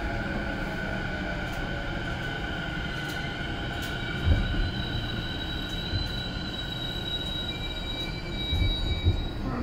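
Keio Line electric commuter train heard from inside a passenger car, running with a steady rumble and several steady high whining tones. A few dull thumps from the wheels come about four, six and nine seconds in.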